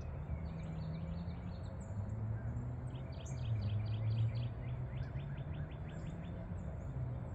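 Songbirds chirping, with a quick trill of short even notes, about five a second, in the second half, over a steady low background hum.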